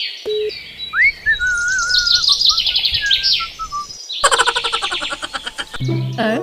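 Chirping and a whistle that rises sharply, then wobbles slowly downward, followed about four seconds in by a burst of dense, rapid chirping. The pieces are separated by abrupt cuts.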